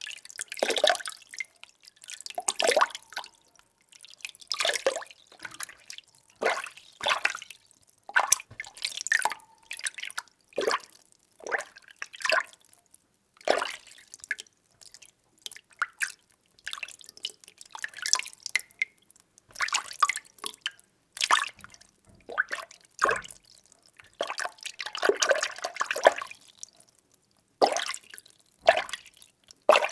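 Water being stirred: short, irregular sloshes and splashes about once a second, with near-silent gaps between them.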